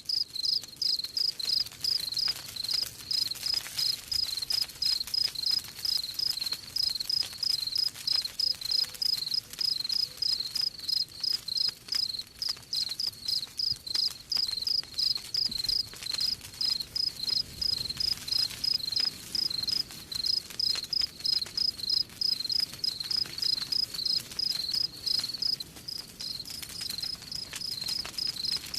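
Cricket chirping in a steady, evenly spaced rhythm, with the soft crackle of a campfire underneath.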